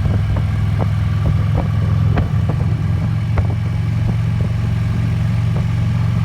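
Harley-Davidson Electra Glide's V-twin engine running steadily while cruising at around 40 mph, with scattered light ticks over the drone.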